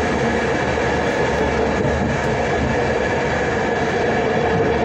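Steady running noise of a passenger train, heard from inside the carriage: the wheels on the rails and the carriage's rumble while under way.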